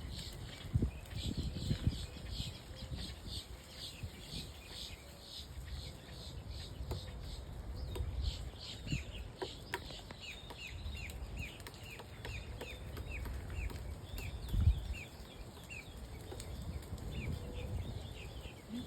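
A bird calling with a long run of short, high chirps repeated about two to three times a second, each one dropping slightly in pitch, over a low wind rumble on the microphone. A few sharp taps come about halfway through.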